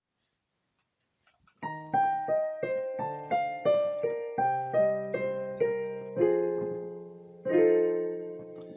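Piano opening a song: silent for about a second and a half, then a run of evenly spaced notes, about three a second, ending in two held chords that ring and fade.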